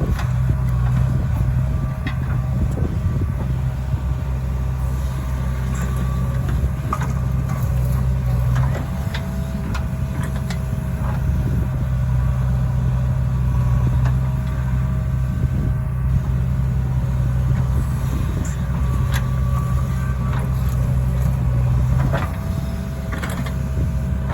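Diesel engine of a JCB 3DX backhoe loader running steadily under work, with scattered metallic knocks and clanks. Its note shifts slightly a couple of times as the load changes.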